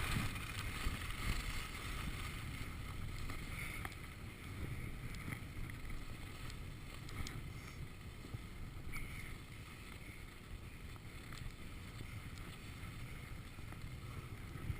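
Wind buffeting the microphone during a ski run: a steady low rumble that slowly fades, with a few faint clicks.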